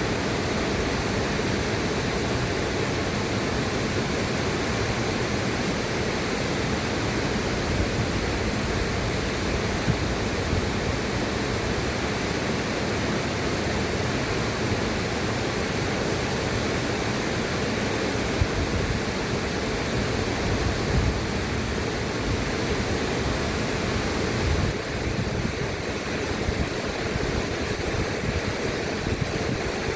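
River water rushing steadily, a dense even hiss with a churning low end. The hiss softens slightly about 25 seconds in.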